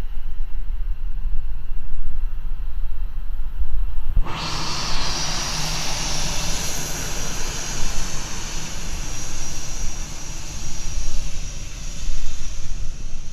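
Wind rumble on the microphone, then about four seconds in an airplane's engine noise starts abruptly with a high whine and slowly fades.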